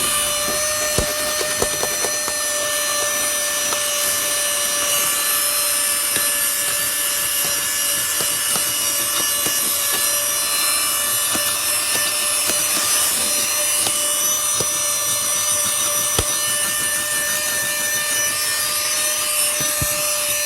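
Cordless handheld car vacuum running steadily with a high motor whine and airflow hiss as it sucks sand out of a car floor rug, with scattered faint clicks of grit.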